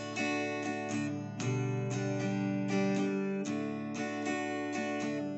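Acoustic guitar strummed with a pick in the campfire rhythm (down, down, up, miss, up, down), changing between G major and D major chords.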